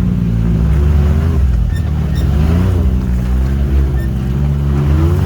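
Can-Am Maverick X3 side-by-side's engine running under way on a rocky trail, its revs rising and falling with the throttle.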